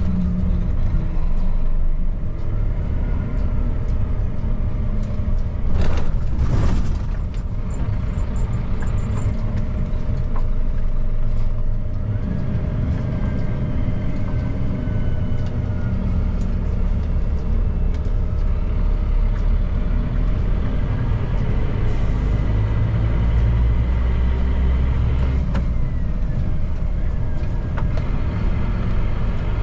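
Scania P310 truck's five-cylinder diesel engine running steadily while driving, with low road and tyre rumble; engine pitch drifts slowly up and down. A brief rush of noise about six seconds in.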